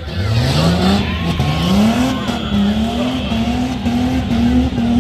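Tough-truck race vehicle's engine revving hard under load, climbing steeply in pitch twice early on, then held near high revs with repeated small dips and surges, as it would when bouncing over rough ground.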